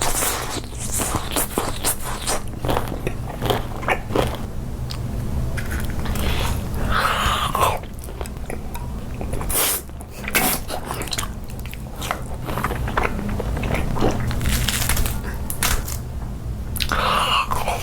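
Close-miked eating: biting into and chewing crunchy food, with repeated sharp crunches and crackles throughout.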